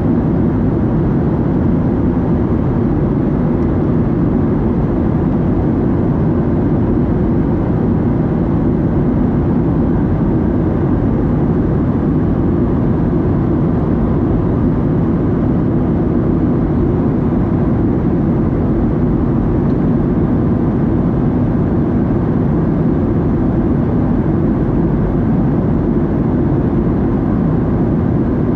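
Steady cabin drone inside a Boeing 737-700 in flight: the CFM56-7B engines and rushing airflow blend into an even, low-pitched roar with a faint hum, unchanging throughout.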